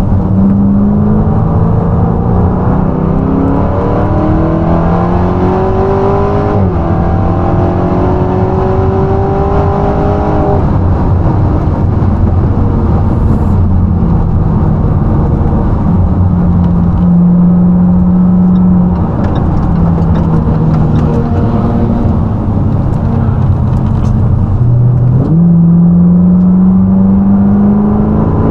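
High-performance V8 car being driven hard on a race circuit: the engine climbs in pitch under full throttle, drops sharply at an upshift about six seconds in and climbs again, then eases off with falling pitch and stepped gear changes through the middle, before pulling hard again near the end.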